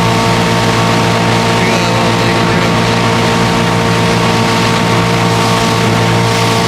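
A 75 hp Evinrude V4 two-stroke outboard running steadily at speed, with the boat underway. The engine holds a constant tone over a rush of water and wind noise.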